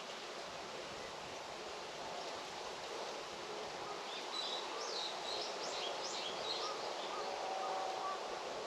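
Steady outdoor hiss of rural ambience. About halfway through, a small bird sings a short burst of quick, high chirps lasting a few seconds.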